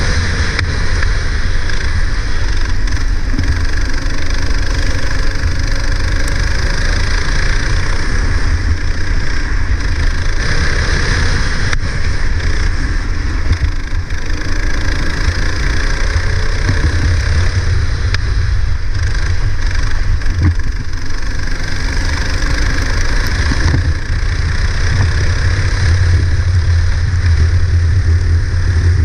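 Go-kart engine running continuously, its pitch rising and falling as it revs up and eases off, with a steady hiss over it.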